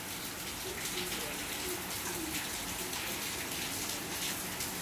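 Steady hiss of light but thick rain falling outside.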